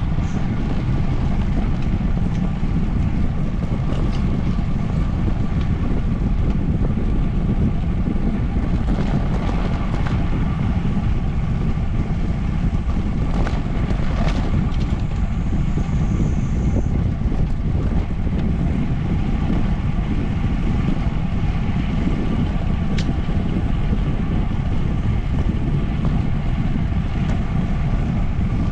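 Steady wind noise buffeting the microphone of a camera riding on a moving bicycle, a constant low rumble.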